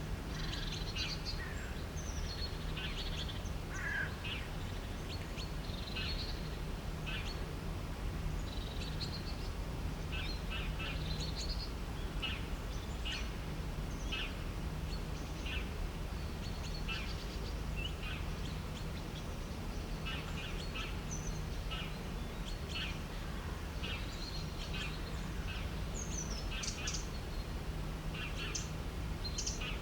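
Several birds chirping and calling in short, frequent notes over a steady low rumble of background noise.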